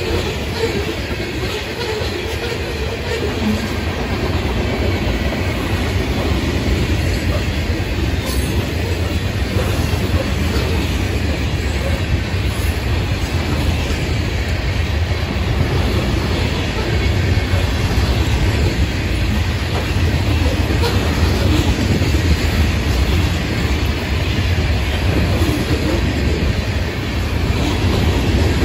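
Loaded freight cars rolling past close by: a steady low rumble of steel wheels on rail, with occasional wheel clicks, growing slightly louder near the end.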